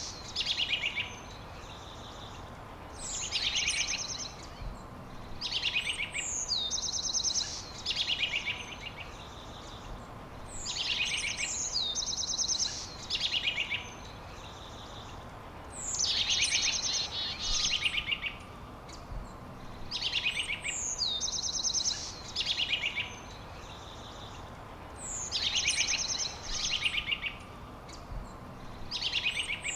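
A songbird repeating the same short, high-pitched phrase about every two to three seconds: a quick falling whistle that runs into a fast trill, over a faint steady background hiss.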